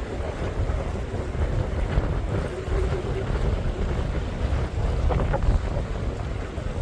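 Strong, gusty wind buffeting the microphone, a rumbling rush that rises and falls. This is typical of the outflow wind that blows ahead of a thunderstorm's shelf cloud.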